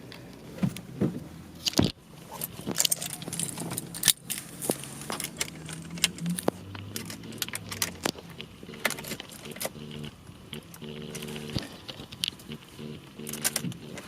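A bunch of keys jangling and clicking in irregular rattles, over a low steady hum.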